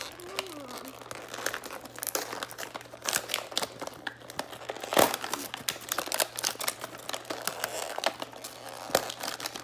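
Plastic and foil toy packaging being torn open and crinkled by hand, an irregular run of crackles with a louder rip about halfway through.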